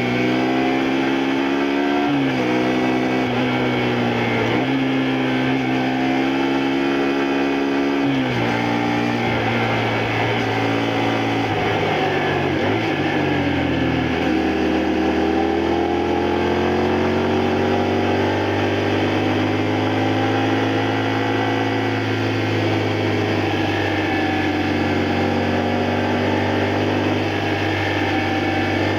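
2002 Honda Varadero XL125V's small V-twin engine under way, pulling through the gears. The pitch climbs and drops sharply twice in the first eight seconds, sinks low, then builds in one long steady rise and slowly eases off near the end.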